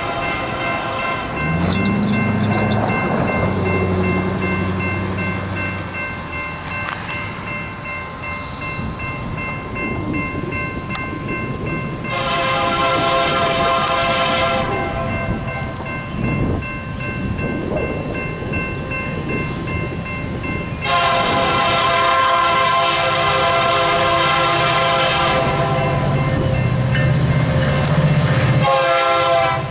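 Freight locomotive horn sounding two long blasts as the train approaches: one of about two and a half seconds starting about 12 s in, then a longer one from about 21 s nearly to the end. A steady rail and diesel rumble runs underneath.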